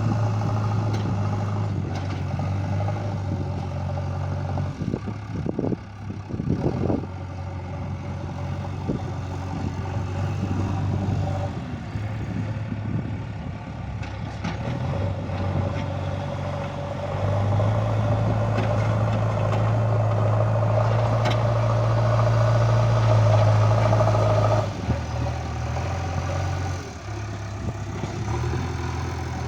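JCB 3DX backhoe loader's diesel engine running steadily, working harder and louder for several seconds in the second half before easing back. A few short clatters come about five to seven seconds in.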